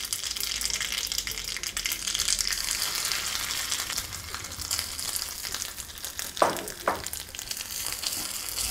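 Grated coconut frying in hot oil in a small seasoning pan, a steady crackling sizzle, with a spoon stirring it and two short scrapes of the spoon about six and a half seconds in.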